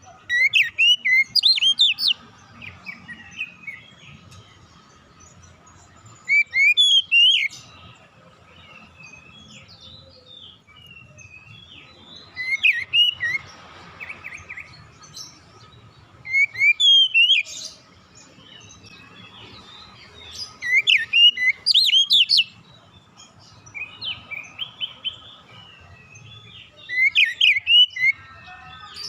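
Oriental magpie-robin (kacer) singing: short, loud phrases of sharp rising whistled notes, repeated about every four to five seconds, with softer twittering in between.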